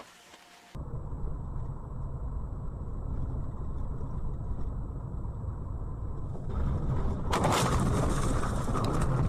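Low road and engine rumble of a moving car heard from inside, starting abruptly; from about seven seconds in it swells into a loud rushing noise.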